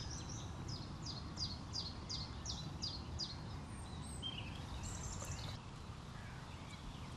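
A songbird singing a quick run of about ten short falling whistled notes, about three a second, then a few brief scattered calls, over a steady outdoor hiss.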